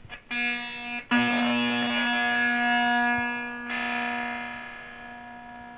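Electric guitar (Squier Mini Strat) played through a handmade octave fuzz pedal. Three fuzzy, distorted notes are struck: a faint one at the start, a strong one about a second in, and another near the middle, each sustaining and slowly fading. The pedal is passing signal again after a repair of its shorting fault.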